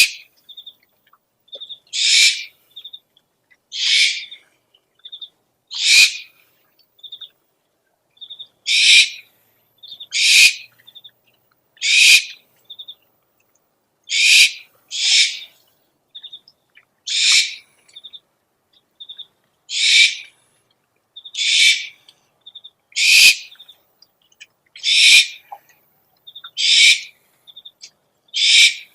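Owl calls played as a lure: a harsh screech lasting about half a second, repeated every one and a half to two seconds, with short bursts of two to four quick chirps between the screeches.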